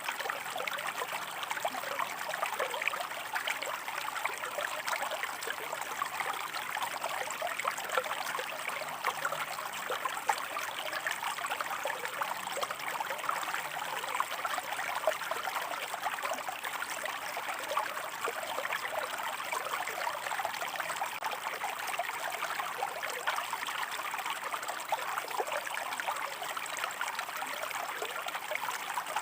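Shallow stream water running and trickling over rocks: a steady babble of small splashes and gurgles, mostly in the middle and upper range, with no let-up.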